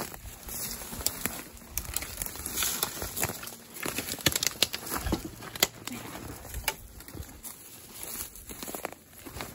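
Footsteps through dry leaves and brush, with irregular crackling and twig snaps.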